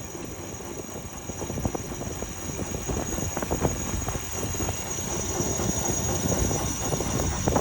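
Wind rushing and buffeting over the microphone on a sailing boat under way, with irregular fluttering knocks, building slightly louder.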